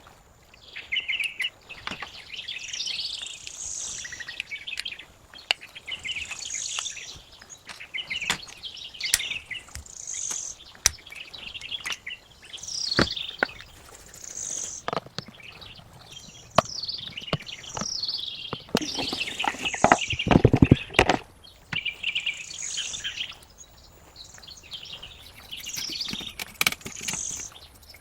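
Small birds chirping and singing in repeated short phrases, with scattered sharp clicks and taps among them. About twenty seconds in comes a brief, louder low rumble lasting under a second.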